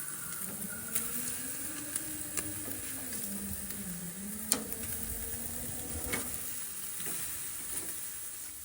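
Meat sizzling over a charcoal grill, a steady hiss broken by a few sharp clicks, the loudest about four and a half seconds in. A faint low tone wavers up and down through the middle and fades out after about six seconds.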